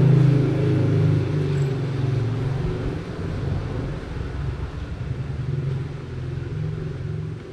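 A steady low engine hum that gradually fades away.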